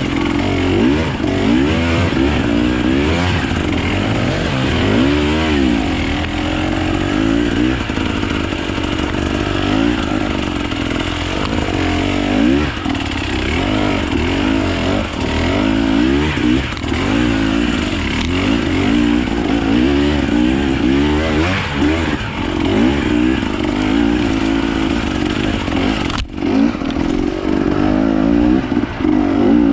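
Off-road enduro motorcycle engine being ridden, its pitch rising and falling continuously as the throttle is worked and opened and closed over rough ground.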